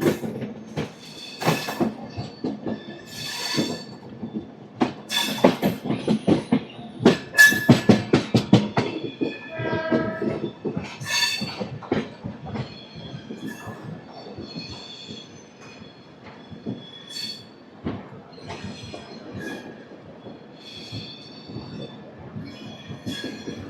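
Express train's LHB coaches rolling over rail joints and points: a run of sharp wheel clacks, fastest and loudest about five to nine seconds in, with a brief high pitched tone about ten seconds in. After that the train rolls more quietly with scattered clicks.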